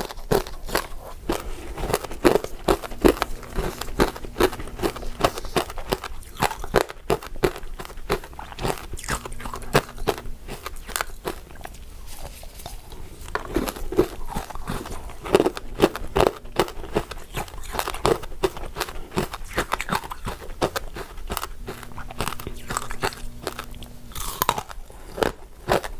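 Close-up crunching and chewing of crystal ice dessert pieces: a dense, irregular run of crisp cracks as the icy pieces are bitten and broken between the teeth.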